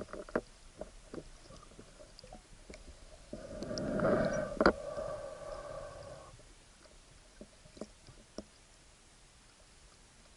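Muffled underwater sound through the camera's waterproof housing: scattered small clicks and knocks, and starting about three seconds in, a louder bubbling rumble with a steady hum that lasts about three seconds.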